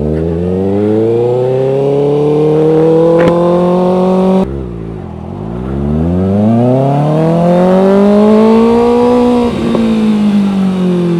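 Kawasaki Ninja ZX-6R 636's inline-four engine accelerating hard: revs climb, drop suddenly at a gear change about four and a half seconds in, climb again through the next gear, then ease off near the end.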